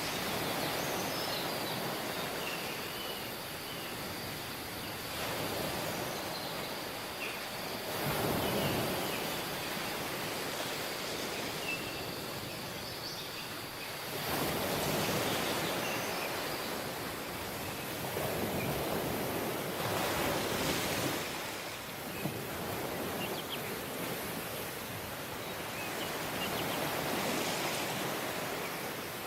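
Sea waves breaking and washing up on a tropical beach, the surf swelling and easing every five or six seconds.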